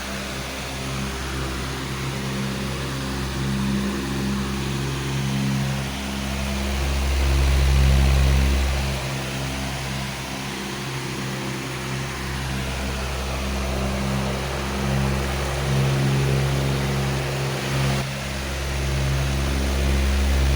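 Powerful electric fan running steadily: a rush of air over a low motor hum that slowly swells and eases.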